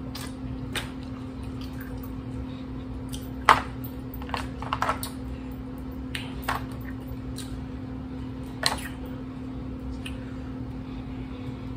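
Close-up eating sounds from a seafood boil: wet chewing and lip smacks, with scattered clicks from picking at shellfish, the sharpest about three and a half seconds in. A steady low hum runs underneath.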